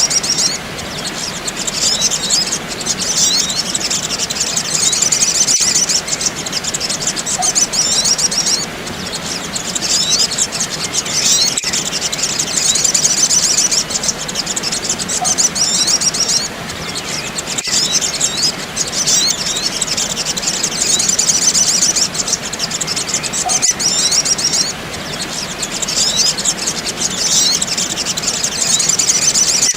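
Sogok ontong sunbirds (kolibri) giving dense, high-pitched twittering chirps in rapid phrases with brief pauses. It is a looped lure recording that repeats about every six seconds.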